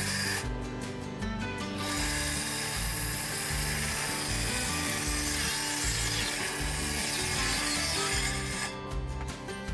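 Circular saw cutting through plywood: a brief burst right at the start, then one long, steady cut of about six seconds ending near the end, over background music.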